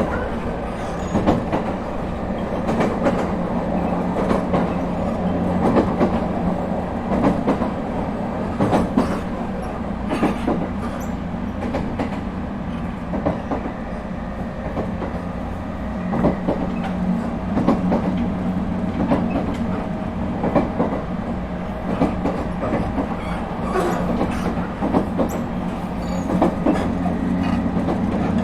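Onboard running sound of an ET127 series electric train, car ET127-6, with Toyo IGBT-VVVF traction equipment, under way. There is a steady rumble with repeated clicks of wheels over rail joints, and a faint steady tone joins about halfway through.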